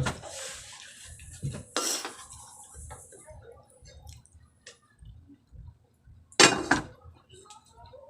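Close-up eating sounds: wet chewing and mouth sounds with small clicks of dishes, and two louder noisy bursts, one about two seconds in and one near the end.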